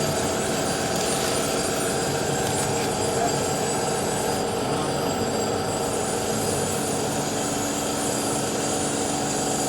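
Steady mechanical running noise with a faint whine, holding an even level with no breaks.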